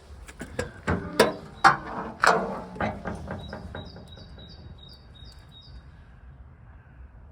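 A quick series of knocks and clunks, the loudest a few sharp ones that ring briefly, during the first three seconds. Then a small bird chirping the same short high call over and over, about three times a second.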